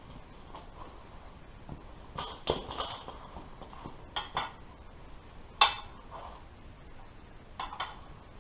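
Sharp metallic clinks and knocks, about eight separate strikes, the loudest about five and a half seconds in: steel pieces and tools being handled while bending sheet-metal fender repair pieces.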